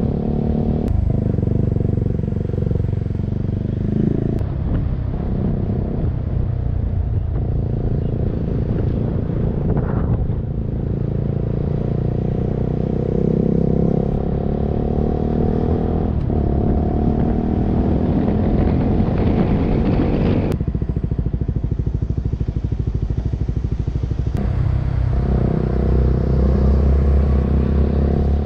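Motorcycle engine running under way, its pitch rising and falling as the throttle and gears change every few seconds.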